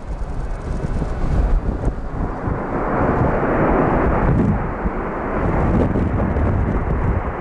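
Jet noise from a Boeing C-17 Globemaster's four turbofan engines, swelling about three seconds in and easing a second or so later, with wind buffeting the microphone.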